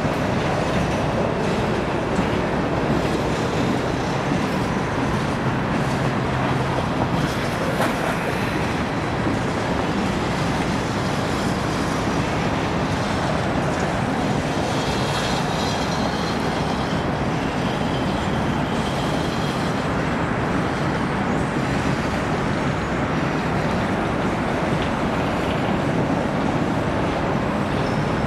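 Steady rolling noise of a long CSX freight train's coal hoppers and gondolas passing, steel wheels clattering over the rails. A faint high-pitched squeal comes in about halfway through.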